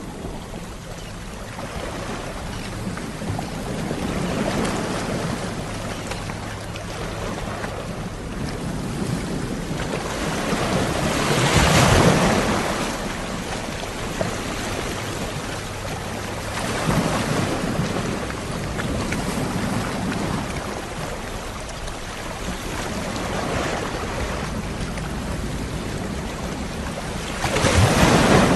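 Sea waves washing onto the shore, a rush of surf that swells and fades every few seconds. The waves are loudest about twelve seconds in and again near the end.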